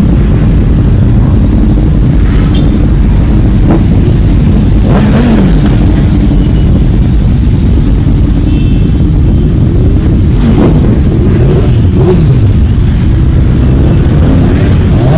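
Motorcycle engines running, their pitch rising and falling a few times as bikes rev or go by, under a heavy low rumble of wind buffeting the microphone.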